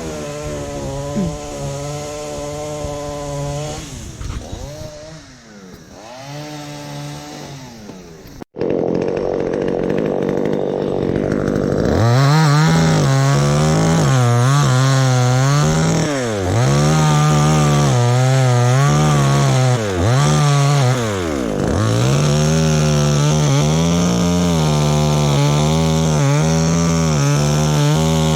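Chainsaw engine running, repeatedly revving up and dropping back, growing louder and more sustained about a third of the way in.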